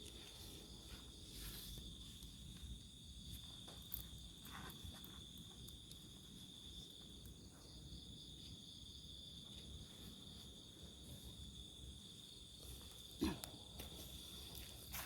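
Crickets chirring steadily in one high, even tone. A few faint clicks or knocks break in, the loudest near the end.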